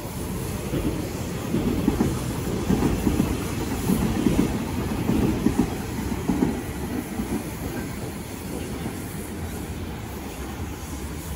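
Taiwan Railways local electric multiple-unit train passing, its wheels clacking over the rails in repeated pulses. It is loudest in the first half and fades to a lower rumble as the train moves away.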